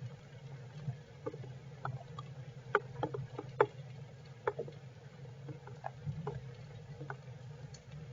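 Raindrops tapping irregularly on a shelter, thickest a few seconds in, over a steady low hum.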